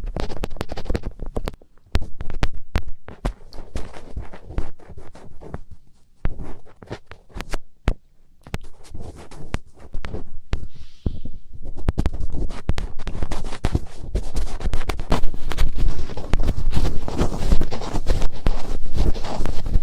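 ASMR finger ear-cleaning: fingertips rubbing and scratching right at a microphone's ear, giving close, crackling rustles and clicks. It comes in short runs with brief pauses at first, then turns steadier and louder from about twelve seconds in.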